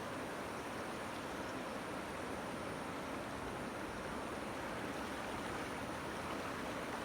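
Steady rush of the Trishuli River in flood, its swollen water churning in swirling eddies.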